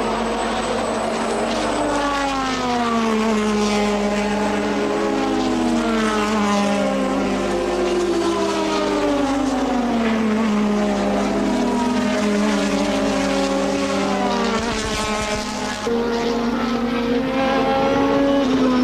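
Several 1.5-litre turbocharged Formula One cars running together, their engine notes overlapping and repeatedly falling then climbing again as they slow, change gear and pull away.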